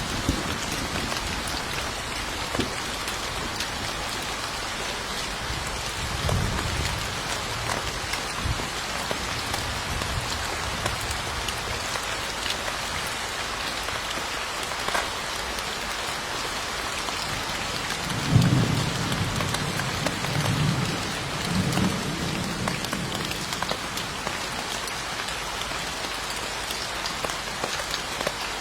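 Steady heavy rain falling, with low rolls of distant thunder, a faint one about six seconds in and the loudest about eighteen seconds in, rumbling on for a few seconds.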